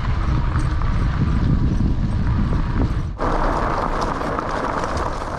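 Continuous rough rumble and rattle of an e-bike riding over a dirt track. The sound changes abruptly about three seconds in.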